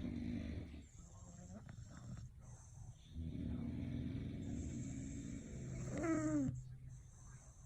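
English bulldogs snoring: a short snore at the start, then a longer one from about three seconds in that ends in a brief falling squeak.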